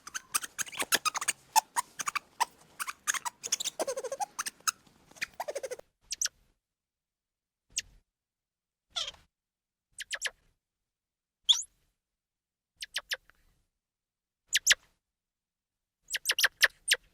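High-pitched calls of a small animal: a rapid chatter of short squeaks for about the first six seconds, then single short chirps every second or two with silence between.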